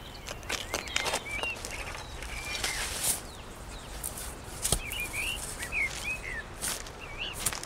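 Small birds chirping in short wavering phrases, a cluster about a second in and a livelier run from about five to seven seconds in, over a steady outdoor hiss with a few faint clicks.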